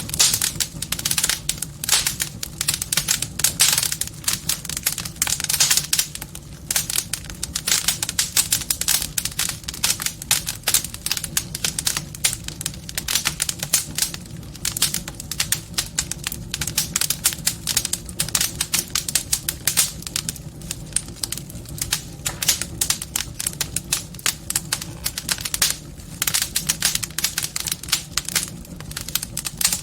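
Wood fire crackling in a fireplace: a dense, irregular stream of snaps and pops.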